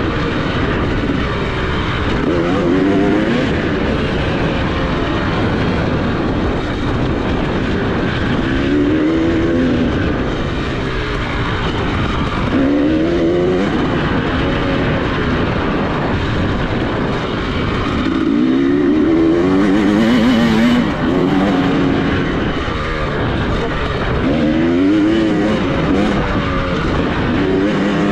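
Dirt bike engine under riding load, its pitch rising again and again as the throttle is opened, about every few seconds, over a steady rough noise.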